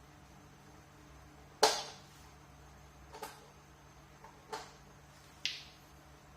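Four sharp clicks and knocks from a desk fan's parts being handled, the first the loudest, spaced a second or so apart.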